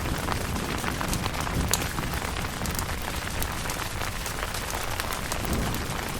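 Steady rain pattering on a tent, with many separate drop ticks over a low rumble.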